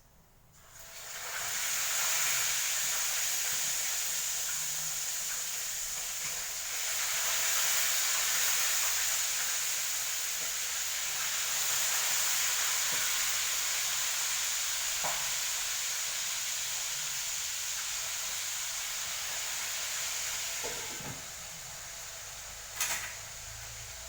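Food sizzling in hot oil in a pan, an even frying hiss that starts about a second in and eases off near the end, with one sharp click shortly before the end.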